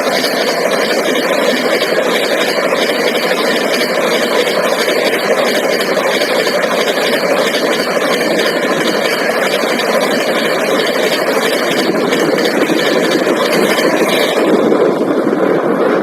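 Express train passing close by at high speed: a loud, steady rush of wheels on rail and wind, its hiss thinning near the end as the train clears.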